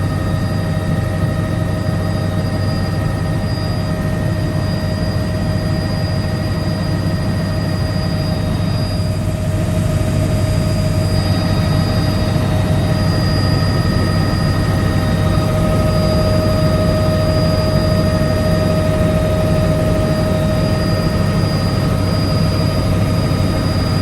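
Helicopter running steadily: a low rotor drone with several steady whining tones above it, growing a little louder about ten seconds in.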